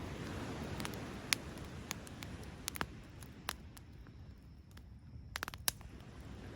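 Wood fire crackling in a Picogrill 398 fire pit: scattered sharp pops, with a quick cluster of them near the end, over a steady low rumble.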